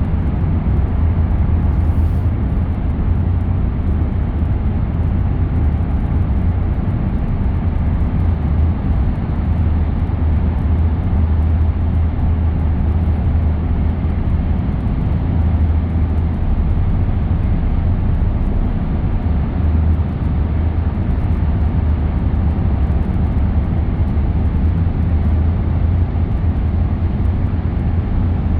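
A car driving at steady speed: constant low rumble of tyre, road and engine noise.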